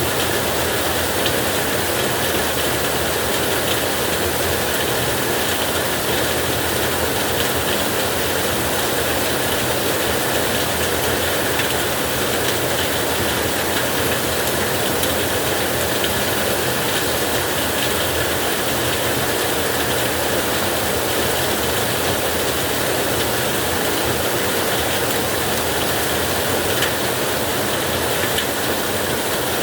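Heavy rain pouring steadily onto a tin roof, a dense, even patter of drops on sheet metal.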